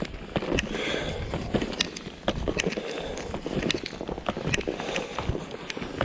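Wind buffeting the microphone with a low rumble and hiss, over irregular clicks and crunches of ski gear moving on snow.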